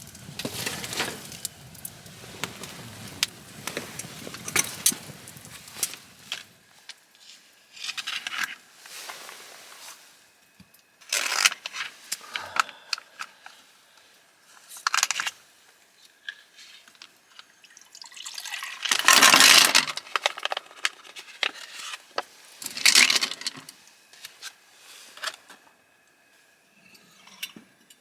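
Intermittent handling sounds of camp gear: a string of short rustles, scrapes and clinks, with the loudest, longer noise a little past the middle.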